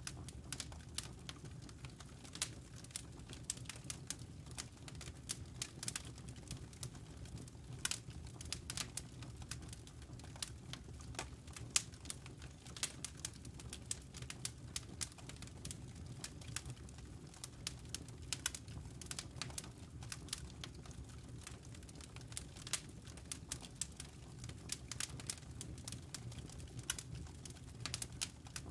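Campfire crackling: irregular sharp pops and snaps of the burning fire, many each second, over a steady low rumble.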